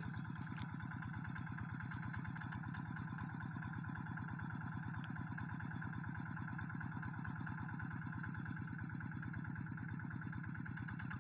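Quick G3000 SEVA hand tractor engine running steadily at idle, with an even, regular firing beat.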